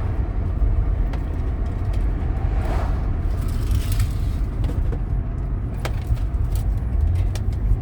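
Steady low rumble of a road vehicle in motion, with a brief swell of hiss about three seconds in.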